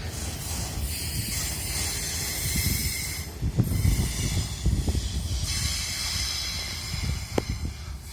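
A train moving on the rails: a low rumble with irregular knocks, loudest about halfway through, over a steady hiss.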